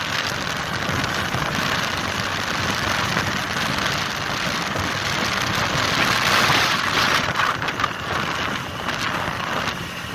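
Steady rushing noise of a moving motor scooter ride: wind and road hiss with a slight rise and fall and no clear engine note.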